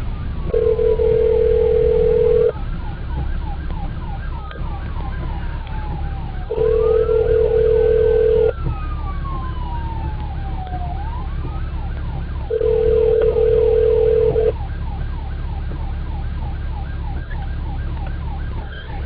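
Telephone ringback tone through a car's hands-free phone system: three steady two-second rings about four seconds apart, as an outgoing call rings unanswered. Under it a siren wails, sliding slowly up and down in pitch with a faster warble alongside, over a steady low vehicle rumble.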